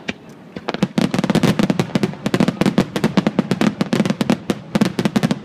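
Fireworks going off in a rapid barrage of sharp bangs, many a second, that starts about a second in and thins near the end.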